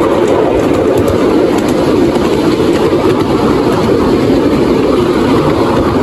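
Lynton and Barnstaple narrow-gauge railway carriage running along the track, a steady rumble of wheels on rail heard from on board.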